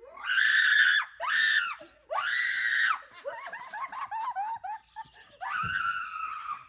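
A woman screaming in fright, three long high-pitched screams in quick succession, then a run of short rapid cries, and one more long scream near the end.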